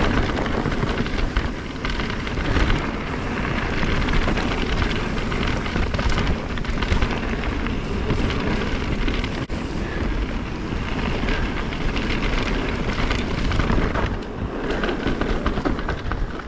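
Mountain bike descending a rough dirt trail at speed: tyres on dirt with steady rattling and knocking from the bike, and wind on the microphone.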